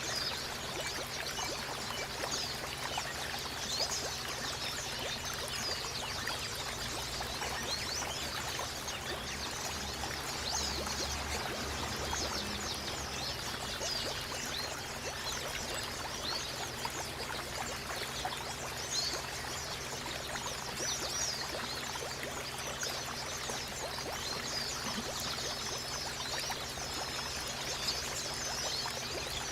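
Running water trickling and splashing steadily, like a small stream, with many short high chirps scattered through it and a few brief whistled notes near the end.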